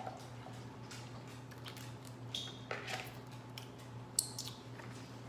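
Close-miked eating sounds: scattered wet clicks and squishes of chewing and handling boiled seafood, with one sharp click about four seconds in, over a steady low hum.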